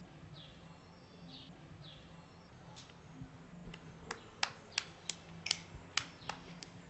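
A few short bird chirps early on, then a run of sharp clicks, two or three a second, from about three seconds in, over a faint low steady hum.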